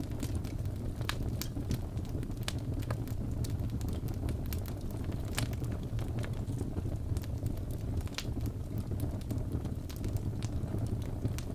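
Crackling wood fire: a steady low rumble of burning logs with frequent irregular sharp pops and snaps.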